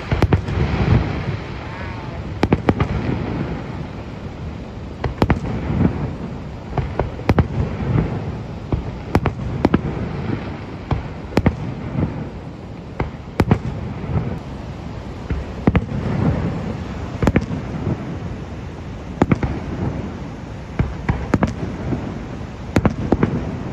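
Fireworks display: many sharp bangs and pops at irregular intervals, some in quick clusters, over a continuous low rumble.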